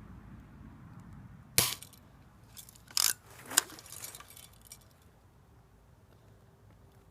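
A BB gun firing with a single sharp snap, followed about a second and a half later by two shorter clicks a little over half a second apart, from handling the gun.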